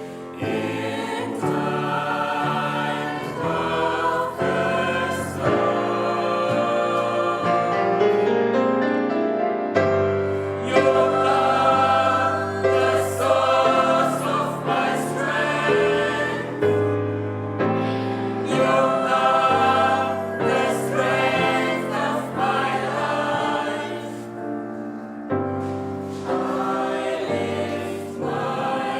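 Gospel choir singing, many voices sustaining notes together with a low bass line beneath.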